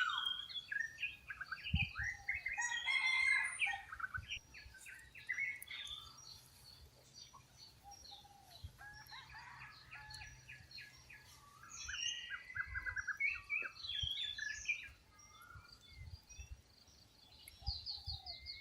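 Several wild birds chirping and calling over one another in quick, overlapping notes and short trills. They are busiest in the first few seconds and again in the middle, with a quieter stretch between.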